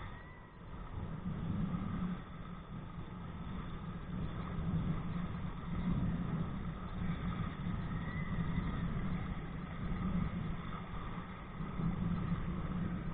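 Low wind and water rumble on a body-worn camera's microphone while kite kayaking, swelling and easing every second or two.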